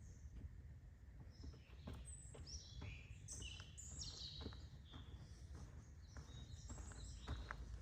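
Faint birdsong: small birds chirping, with a quick run of short, high, mostly falling notes in the middle. Underneath there is a low steady rumble and scattered faint clicks.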